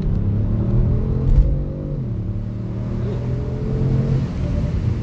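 Kia Stinger's engine heard from inside the cabin as the car accelerates. The engine note climbs, drops sharply about two seconds in as the automatic upshifts, then climbs again.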